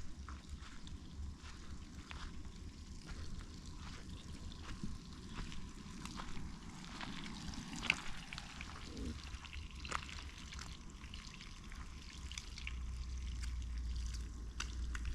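Bacon frying in a pan over a campfire, sizzling with many scattered pops and crackles.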